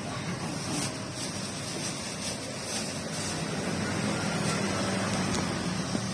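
Steady rain falling, an even hiss with faint spattering, over the low hum of road traffic.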